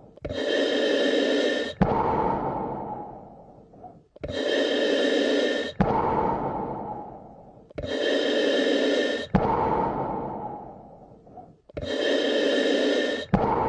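A person breathing slowly and evenly, about four full breaths. Each breath is a steady rush of air that stops sharply, then a longer one that fades away.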